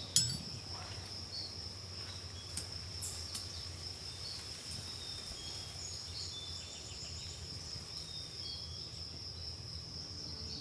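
A steady, high-pitched insect trill with a low steady rumble beneath it. A few faint, short bird chirps come in around the middle, and there is a brief click just after the start.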